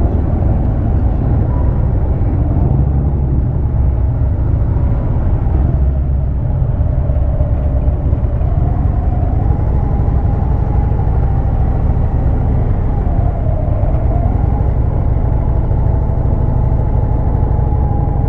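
Harley-Davidson Road King's V-twin engine running while riding, under heavy low wind rumble on the microphone. A wavering higher tone rides on top and rises about halfway through.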